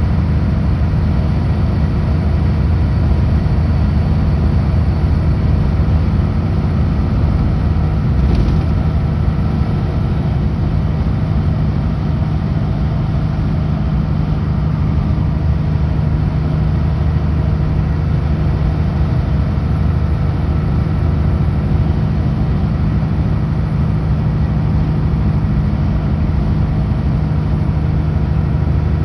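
Kenworth W900L semi-truck's diesel engine running steadily at highway speed: a constant low drone with road noise. One short click about eight seconds in.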